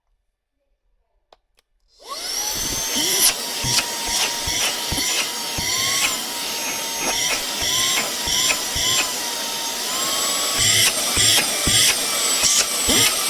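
Cordless handheld vacuum cleaner switching on about two seconds in and running, its motor whine wavering slightly in pitch, with scattered clicks and knocks over it.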